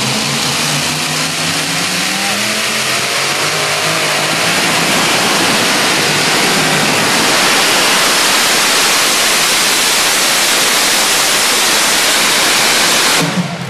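Pulling tractor's engine running flat out under load, loud and steady, growing louder over the first several seconds and cutting off suddenly near the end.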